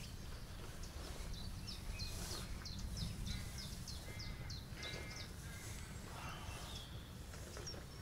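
Wild birds calling: a quick run of short, falling chirps in the first half, then a brief call with several pitches a couple of seconds later, over a steady low rumble.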